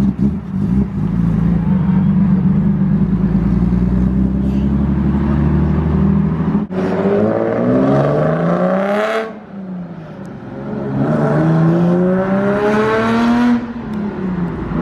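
Car engine with a steady low drone, then, after a sudden break, accelerating hard: its pitch rises, drops at a gear change, and rises again before dropping near the end.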